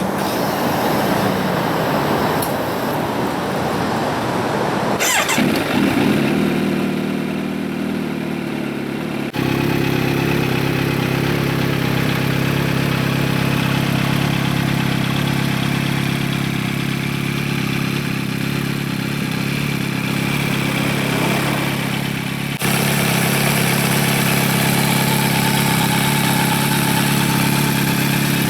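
Kawasaki Z900 inline-four, with the catalytic converter removed and a custom stainless link pipe into a generic muffler, starting up about five seconds in after a rushing noise, then idling steadily.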